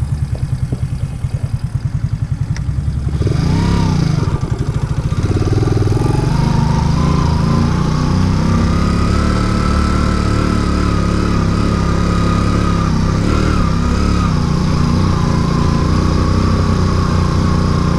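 Racer Alpha RC50 moped's small four-stroke single-cylinder engine chugging at low revs, then revving up about three seconds in and holding higher revs under load while the moped climbs.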